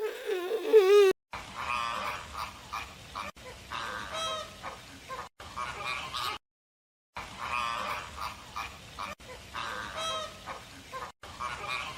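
Honking bird calls in short bursts. The same few-second recording plays twice, with a brief silence between. In the first second a different wavering, pitched cry cuts off abruptly.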